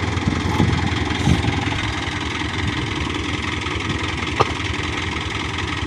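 Diesel engine of a Hino Dutro dump truck idling steadily, with one short sharp click about four seconds in.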